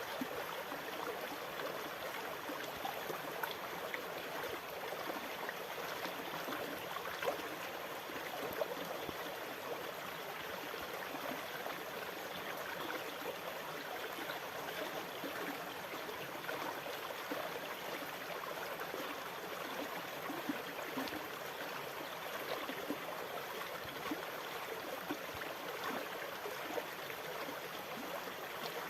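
Sea water moving steadily, with many small splashes and gurgles and no distinct wave swells.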